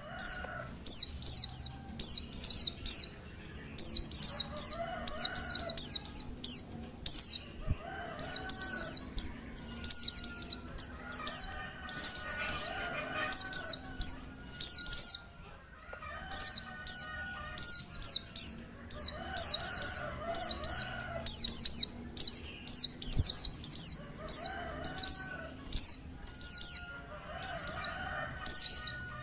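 Female white-eye (pleci) calling: rapid bursts of high, thin, falling chirps in clusters, repeating with short pauses. Fainter, lower bird calls sound behind them.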